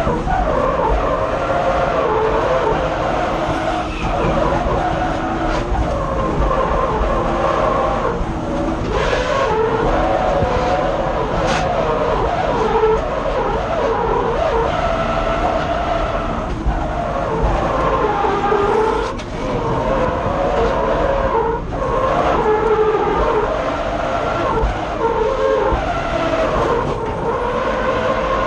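BMW M50B25 2.5-litre straight-six engine revved hard through a drift run, heard from inside the car, its pitch rising and falling continuously with brief dips about two-thirds of the way in. Tyres skid along with the engine.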